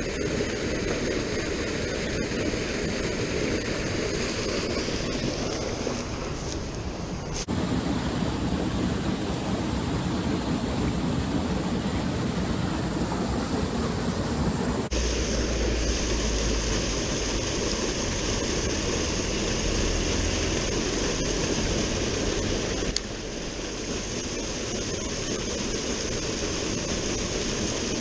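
Steady rushing of a flowing river, an even noise that changes abruptly in tone three times.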